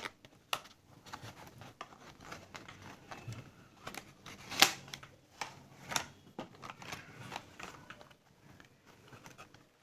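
A product box and its packaging handled by hand while being opened: scattered scrapes, rustles and clicks, with one sharp click about four and a half seconds in.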